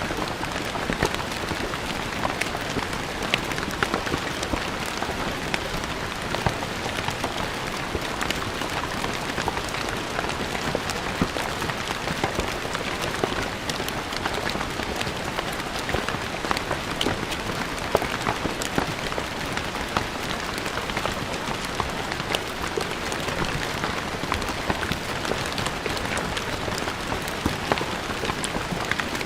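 Steady rain falling on stone paving, a dense even patter with many separate drops striking close by.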